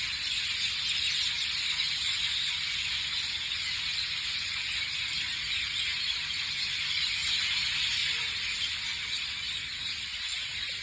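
Steady, dense high-pitched chorus of wildlife, the calls blended into one continuous hiss with no single call standing out.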